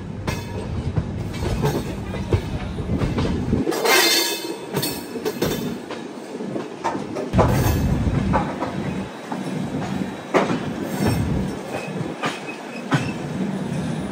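Wheels of Indian Railways LHB passenger coaches rolling over rail joints and points, clattering and clunking irregularly over a steady rumble, with a little wheel squeal.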